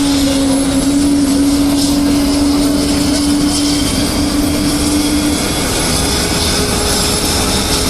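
Aircraft engine running steadily, a loud constant noise with a steady low hum that fades out about five seconds in.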